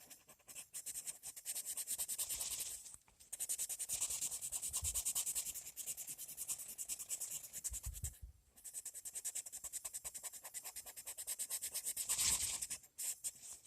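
Colored pencil shading on paper: a fast back-and-forth scratching of the lead across the page in three long runs, broken by short pauses about three and eight seconds in.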